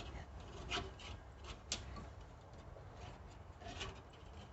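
Faint scraping and light ticking of a wire being worked through a hole in the cab's sheet metal, with one sharper click a little under two seconds in.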